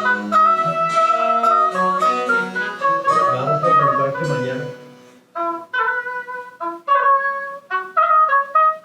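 Small wind-and-string chamber ensemble playing French Baroque music, a high woodwind melody over lower accompanying notes. About five seconds in the music dies away briefly, then resumes in short, detached notes.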